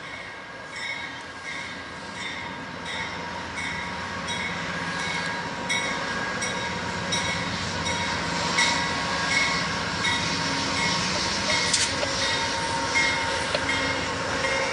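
Train rolling past, its steel wheels squealing on the rail in a high ringing tone that pulses more than once a second over a rumble, growing louder as it comes closer.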